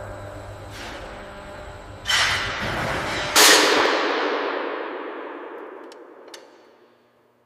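Three heavy clanging impacts, the last and loudest about three and a half seconds in, which rings on and fades slowly over several seconds. Two light clicks sound during the fade.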